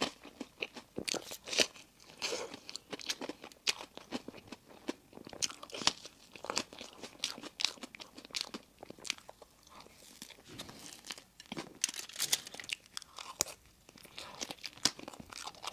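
Close-miked chewing of a crunchy dessert: irregular sharp crunches and crackles, with a quieter stretch about halfway through.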